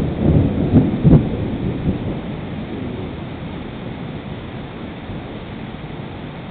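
Thunder rumbling with a couple of sharp cracks in the first second or so, then rolling away and fading, leaving the steady hiss of heavy rain.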